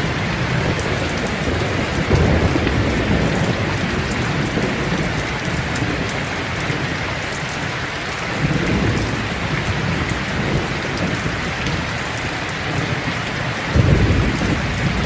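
Steady heavy rain falling, with low rolls of thunder rumbling through it; the loudest roll comes near the end.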